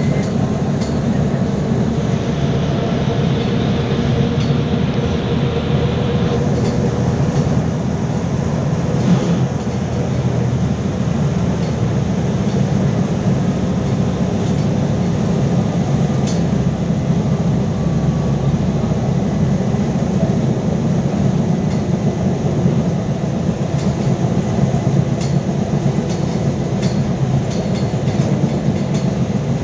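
LiAZ-5280 trolleybus under way, heard from inside: a steady low rumble of tyres and running gear with scattered rattles and clicks from the body. A faint steady whine, from the DK-213 traction motor, sounds over the first seven or eight seconds.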